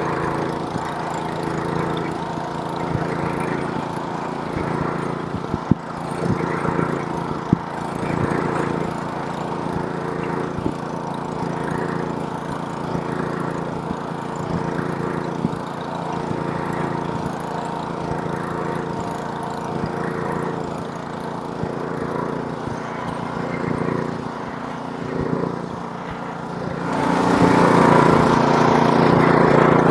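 Snowblower's small gas engine running steadily while clearing snow, with a few sharp clicks early on. About 27 seconds in, it grows louder and harsher.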